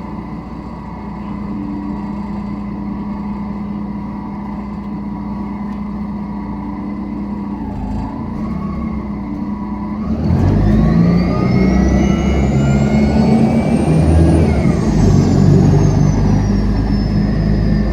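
Mercedes-Benz bus engine running steadily, then about ten seconds in it gets louder as the bus accelerates away, with a whine climbing in pitch. A few seconds later the pitch drops, as at a gear change.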